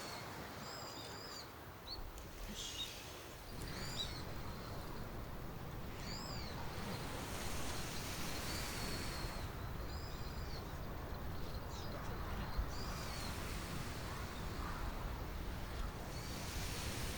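Small birds calling outdoors: short, high, arching chirps repeated every second or two, over a steady low background noise that grows a little louder a few seconds in.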